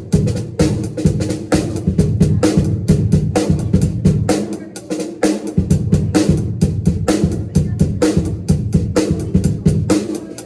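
Drum kit being played: a fast, steady stream of snare and cymbal hits over kick drum, with the low end dropping away briefly about halfway through.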